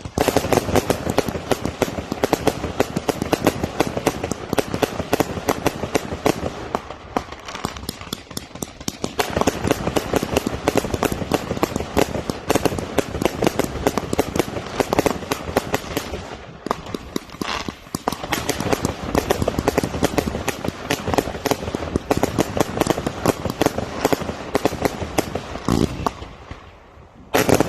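Firework salute barrage going off in a rapid, almost continuous stream of sharp bangs, many per second, with brief thinner spells about a quarter, halfway and near the end, then one loud burst to close.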